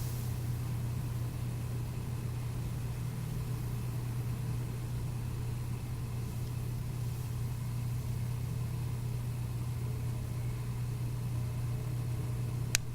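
Steady low hum of a running engine or motor, even throughout, with one sharp click near the end.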